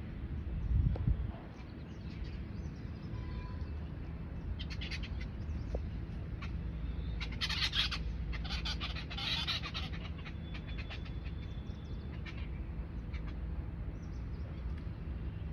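Birds calling, with a run of loud, rapid calls about seven to ten seconds in and scattered shorter calls around them, over a steady low rumble. There is a brief low bump about a second in.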